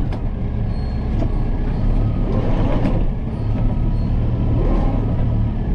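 Kubota M7060 tractor's four-cylinder diesel engine running steadily.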